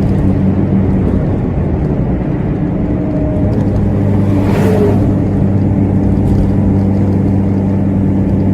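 Steady vehicle running noise, a constant low hum over road noise, with a brief rushing swell about halfway through, like a vehicle passing close by.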